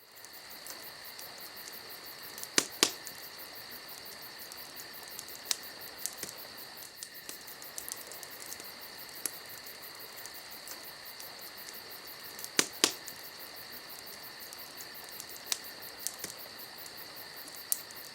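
Steady chorus of chirping insects. A few sharp clicks or taps stand out, a pair about three seconds in and another pair around thirteen seconds in.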